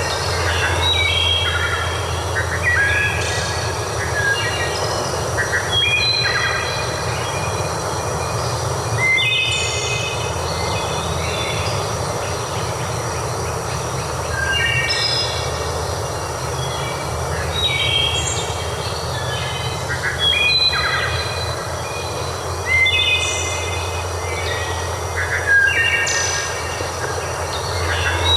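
Birds calling again and again in short clusters of high notes, over a steady low rumble and a continuous hiss.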